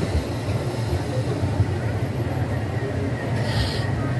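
Express train coach rolling slowly through a station, heard from its open doorway: a steady low rumble of the running gear. A short hiss comes about three and a half seconds in.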